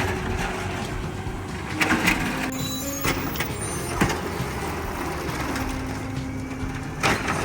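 Garbage truck engine running with its hydraulics working a bin pickup, a steady drone broken by sharp metal clanks and knocks about two, four and seven seconds in.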